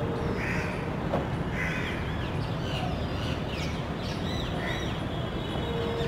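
Birds calling: a few short harsh calls, about half a second in, near two seconds and near five seconds, with a run of quick arched chirps between them, over a steady low rumble.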